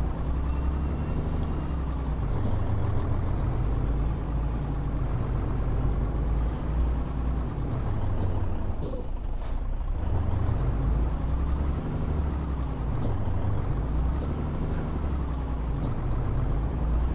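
Tanker truck's diesel engine running under way with a heavy low rumble, its note slowly rising and falling with the revs and easing briefly about halfway through. A few short, sharp high sounds break in now and then.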